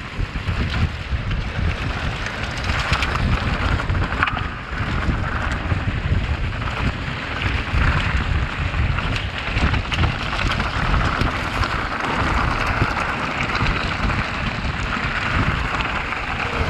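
Wind buffeting the rider's camera microphone over the rumble and clatter of a downhill mountain bike running fast over a rocky trail, with many small knocks from the bumps.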